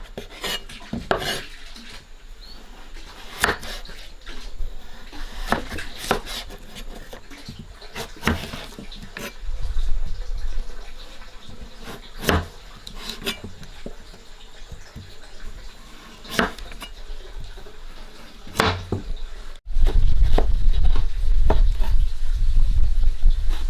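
Kitchen utensils and dishes clinking and knocking at irregular moments during food preparation. Near the end the sound cuts abruptly and a loud, steady low rumble takes over.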